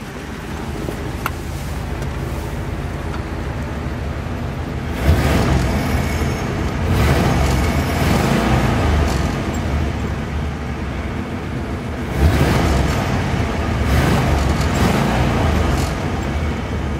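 1957 Ford Thunderbird's 292 Y-block V8 running with dual exhaust, heard from the driver's seat. It is revved twice, about five and about twelve seconds in, each rise lasting a couple of seconds before settling back.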